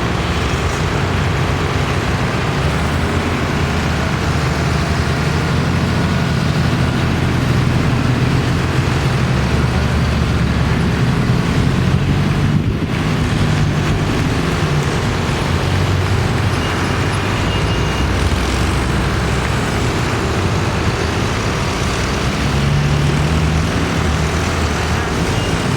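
Several tractor engines running as tractors drive past in a line, a steady low drone whose pitches shift as one engine gives way to the next.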